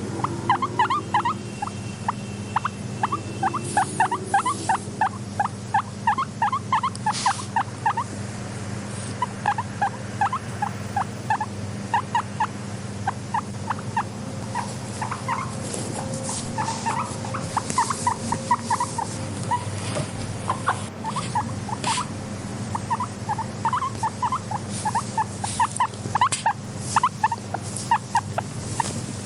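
Guinea pig vocalising in rapid runs of short squeaky calls, several a second, with brief pauses between runs, over a steady low hum.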